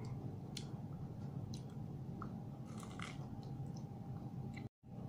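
Chewing grilled corn on the cob: scattered soft mouth clicks and small crunches over a steady background hum.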